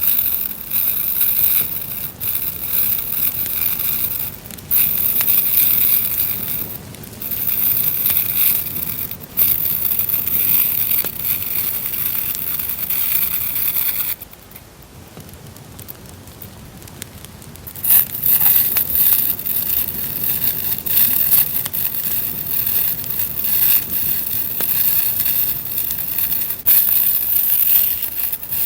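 Campfire crackling mixed with the rustle and crinkle of paper and stickers being handled. About halfway through the sound drops to a quiet hush for a few seconds, then the crackle and rustle come back.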